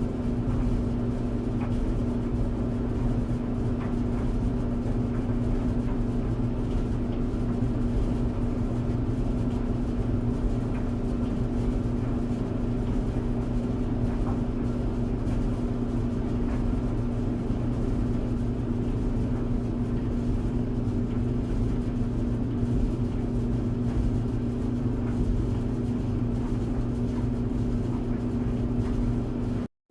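Clothes tumble dryer running steadily: an even hum with a low rumble under it. It cuts out for a split second near the end.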